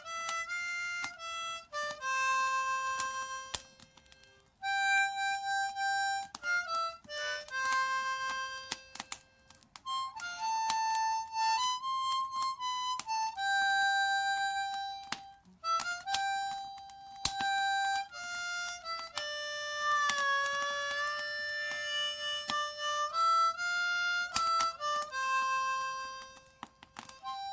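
Background music: a solo harmonica playing a melody in short phrases of held notes, with brief gaps between phrases.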